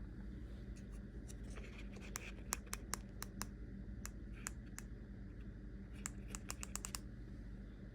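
Sharp plastic clicks of the power button on an e-bike's display being pressed over and over while the display won't turn on. They come singly and in quick runs, with a fast flurry near the end, over a low steady hum.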